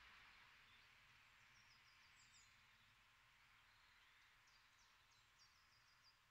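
Near silence: faint outdoor hush with a small songbird's high chirping twittering, two short runs of quick repeated notes.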